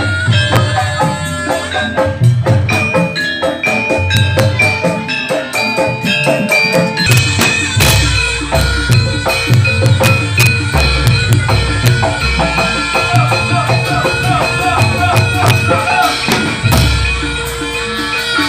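Javanese barongan accompaniment music: hand drums and struck metallophones playing a dense, steady rhythm, with deeper drum beats coming in about eight seconds in.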